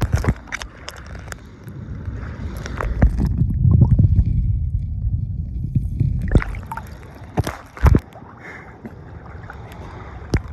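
Lake water sloshing and splashing as someone wades in over rocks, with a low rumble heaviest around four seconds in and several sharp knocks scattered through.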